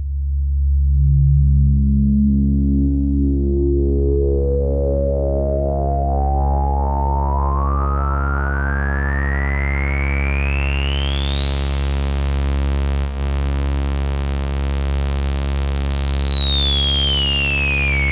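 Sequential Fourm analogue polysynth holding one low droning note while its resonant filter sweeps slowly up, bringing the harmonics through one by one into a whistling peak at the top about thirteen seconds in, then sweeps back down.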